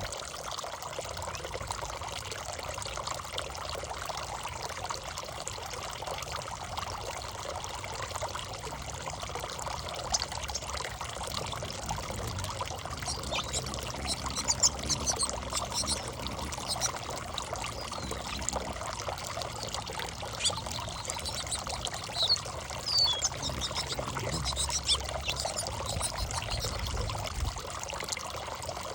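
Fountain water pouring and splashing steadily. Small birds chirp now and then through the middle and latter part.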